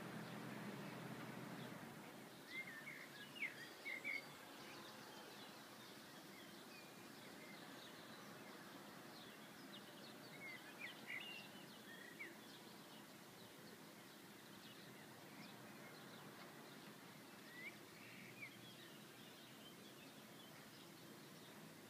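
Faint outdoor ambience with a few short bird chirps in small clusters, a few seconds in, around the middle and again later. A low hum fades out about two seconds in.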